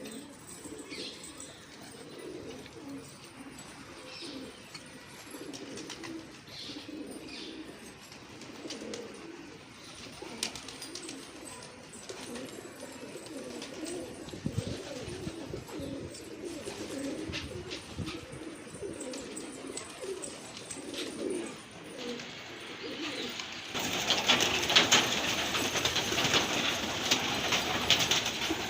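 Pigeons cooing, a steady low warbling. In the last few seconds a louder scratchy noise with many small clicks joins in.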